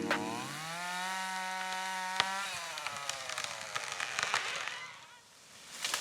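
Chainsaw revving up about half a second in, running steadily at high speed, then slowing and dying away after about two and a half seconds. Near the end a crackling crash of breaking wood begins.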